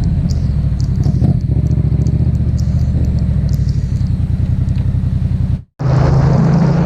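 Yamaha MT-07's parallel-twin engine running steadily under way, with wind and road noise. Near the end the sound cuts out completely for a split second, then resumes with more hiss.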